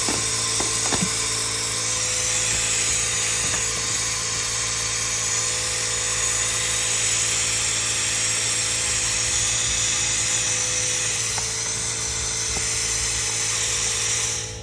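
Compressed air hissing steadily during an air-pressure test of a car's cooling system, the sound of air escaping while a leak is being hunted. The hiss cuts off suddenly at the very end.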